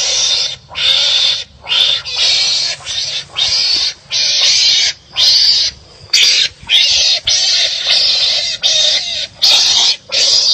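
Wild animals fighting, giving loud, harsh, rasping calls over and over, roughly two a second with short breaks between them.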